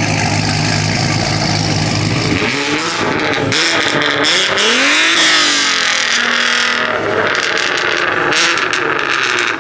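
A car engine idling steadily, then revving up and down repeatedly from about two and a half seconds in.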